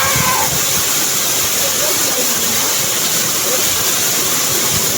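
Waterfall, its water rushing in a loud, steady hiss.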